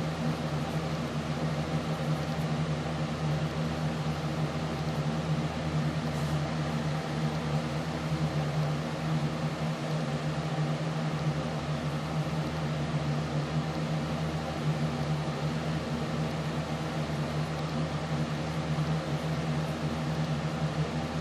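A steady low hum over a constant hiss, unchanging throughout, like a running fan or appliance.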